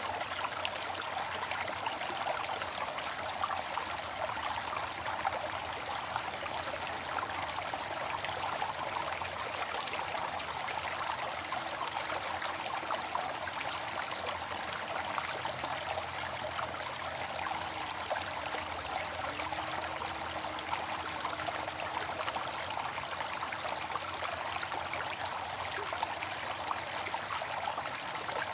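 Water fountain running: a steady, unbroken splash and trickle of falling water.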